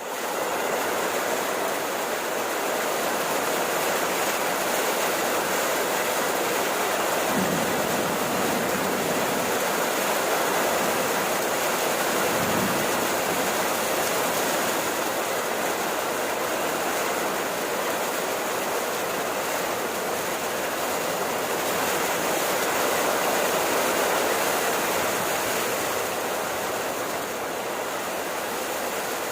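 Steady rain falling: an even, unbroken hiss that holds at about the same level throughout.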